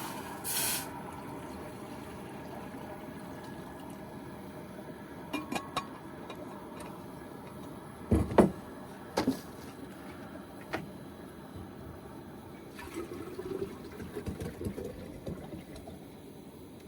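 Water poured into a cooking pot, with a few sharp clanks and knocks of cookware, the loudest about eight seconds in.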